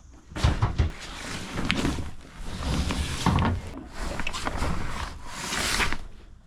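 Rustling and rubbing of large boat cushions being slid into place in the cabin, with a few soft knocks and thumps.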